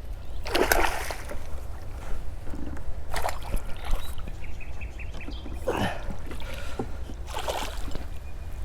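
Water splashing and sloshing around a fishing kayak in separate bursts every one to three seconds, over a steady low rumble.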